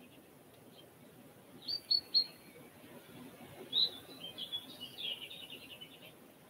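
A small bird chirping faintly: three quick sharp chirps about two seconds in, then a run of twittering notes from about four to six seconds.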